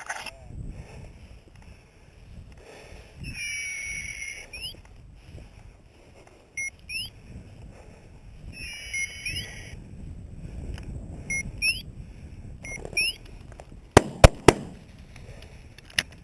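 Shotgun shots fired at a flushed rooster pheasant: two or three cracks in quick succession near the end, and one more about two seconds later. Before them, high swooping tones repeat several times.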